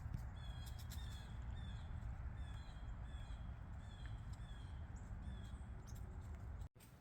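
A bird calling a steady series of short downslurred notes, about two a second, over a low rumble. The calls stop about five seconds in.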